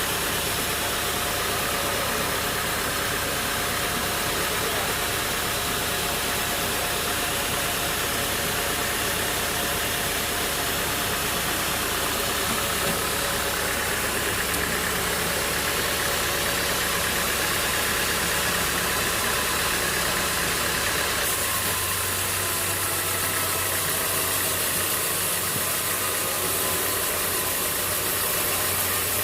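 Sawmill machinery running steadily, a continuous engine-like drone with noise. The sound changes abruptly about three-quarters of the way through.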